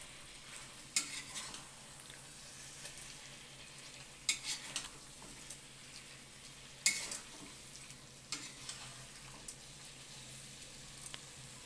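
Chicken cooking in masala in a pan, a faint steady sizzle, with a spoon clinking and scraping against the pan a few times as it is stirred.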